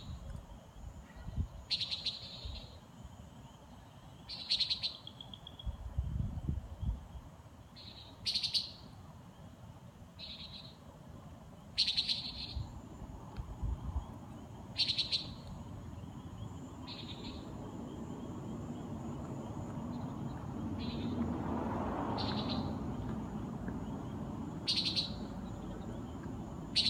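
Common nighthawk giving its short, nasal 'peent' flight call over and over, about one call every two to three seconds. A low rushing hum swells and fades a little past the middle.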